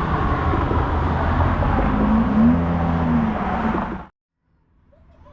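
Road traffic: cars passing with a steady rush of engine and tyre noise, some engines rising and falling in pitch. The sound cuts off abruptly about four seconds in.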